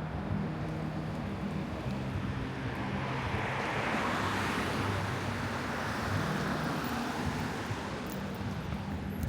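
Street traffic: a car passes, its noise swelling to a peak about four seconds in and fading, over a low engine hum.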